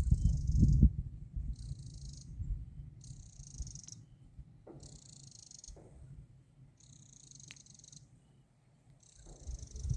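An insect stridulating: raspy, dry chirps about a second long, repeating about every one and a half seconds.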